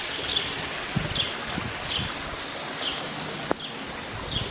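A small bird giving short falling chirps, about two a second, over a steady rush of running water, with one sharp click near the end.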